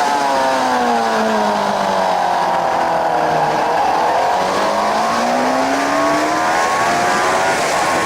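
Suzuki GSX-R 750 K7 inline-four engine heard onboard at speed: the revs fall for about three and a half seconds as the bike slows for a corner, then climb steadily as it drives out and accelerates. Steady wind rush over the microphone throughout.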